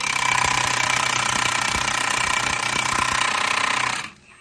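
Air impact wrench hammering steadily on a stuck fastener that isn't coming loose, with a high whine over the rattle, stopping abruptly near the end.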